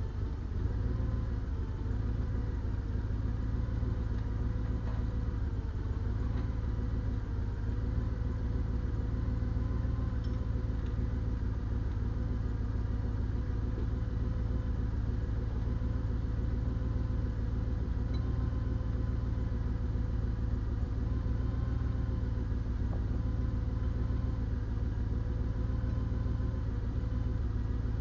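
Heavy diesel engine running steadily at an even speed, with a deep low rumble and no change in pitch.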